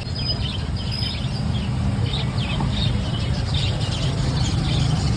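Small pet parrots chirping in quick, short repeated calls over a steady low rumble.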